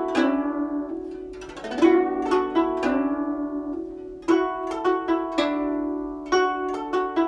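Guzheng being played: a short melodic phrase of plucked notes that ring on, with strong new plucks about two, four and six seconds in, and some low notes bending in pitch as the strings are pressed.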